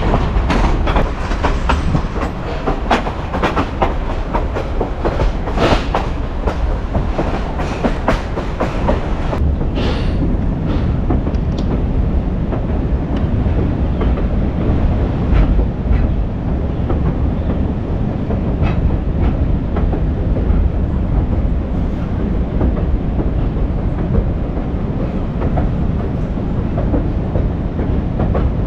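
Century-old train rolling along the track: the wheels clack over the rail joints above a steady low rumble. The clacks come thick and fast at first, then thin out after about ten seconds.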